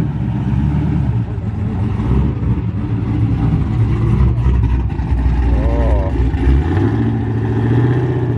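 Car engine running with a deep, loud rumble; its pitch steps up a little about two-thirds of the way in.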